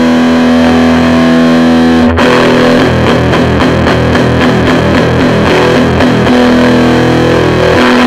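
Electric guitar with humbuckers played through a Mesa Boogie Recto-Verb 25 valve combo on its distortion channel, with gain full, treble full up and the mids turned in. A held distorted chord, a short break about two seconds in, then a run of fast picked notes and another held chord near the end.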